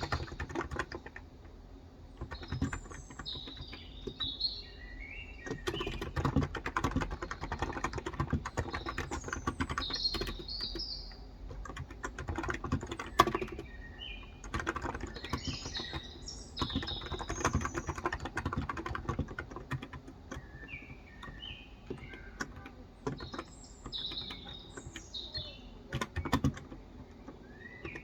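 Typing on a Cox Endeavor electro-capacitive (Topre-style) tenkeyless keyboard with 35 g switches: a continuous run of soft keystrokes. Birds chirp in short, repeated phrases over it.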